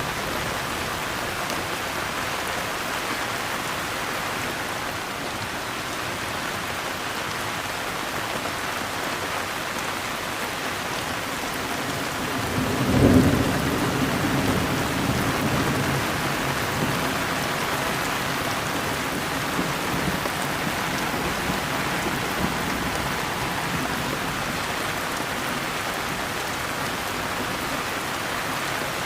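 Steady rain falling, with a peal of thunder about halfway through that rumbles low and fades over several seconds.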